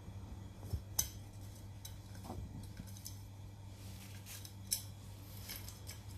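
Scattered light, sharp clicks and ticks, a handful over a few seconds, the loudest about a second in, over a steady low hum.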